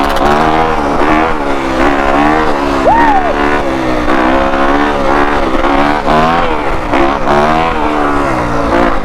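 Yamaha YZ250F's single-cylinder four-stroke engine revving up and down repeatedly while the bike is ridden, its pitch rising and falling with the throttle. A brief squeal rises and falls about three seconds in.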